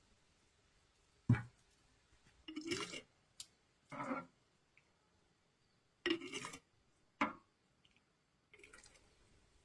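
Handling noises of food preparation: a single thump about a second in, then about five brief scraping or rubbing sounds with quiet between them.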